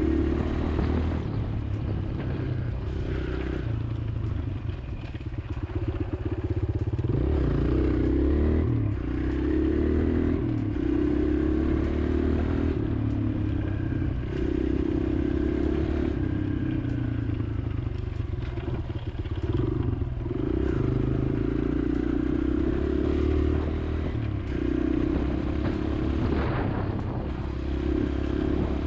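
Kawasaki KLX140L pit bike's single-cylinder four-stroke engine running while being ridden, its revs rising and falling with the throttle.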